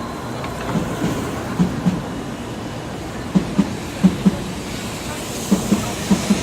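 A train rolls past, its wheels knocking over rail joints in quick pairs of clacks about once a second over a steady rumble.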